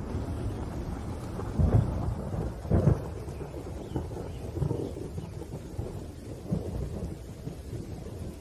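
Thunder rumbling over steady rain, with two loud low peals about two and three seconds in, followed by smaller rolls of rumbling.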